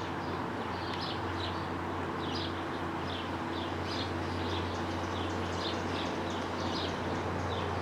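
Lawnmower engines running with a steady drone, with a small bird chirping short high notes about twice a second over it.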